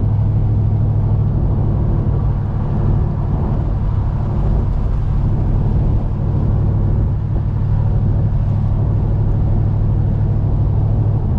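Chevelle's carbureted engine running through a new 2.5-inch dual exhaust with single-chamber mufflers, heard from inside the cabin with the windows down as the car cruises at a steady pace. A steady low exhaust drone with road and wind noise over it.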